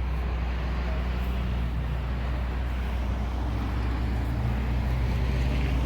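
Steady outdoor vehicle and traffic noise with a constant low rumble.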